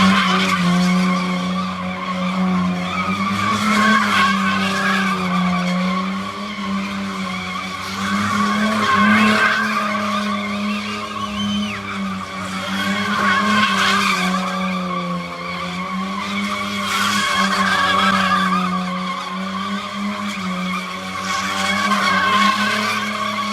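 A car held at steady high revs with its tyres squealing in a long skid, swelling and fading about every four to five seconds as it circles. The sound cuts off suddenly at the end.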